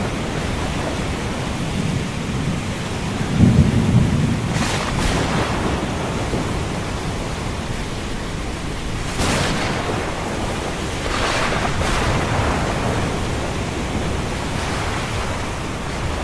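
Thunderstorm over the sea: steady rain hiss, with a low thunder rumble about three or four seconds in and waves washing in a few times.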